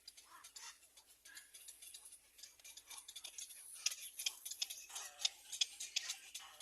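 Birds stirring and preening in a nest: dry, scratchy rustling and clicking of feathers and bills against nest material, thicker and louder over the second half.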